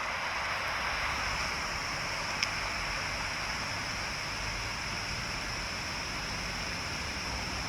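Steady hiss of noise with no words, with one faint tick about two and a half seconds in.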